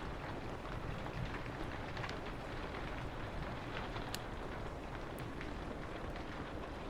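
Steady rain with a low wind rumble beneath it, and a few sharp crackles and pops from a wood fire.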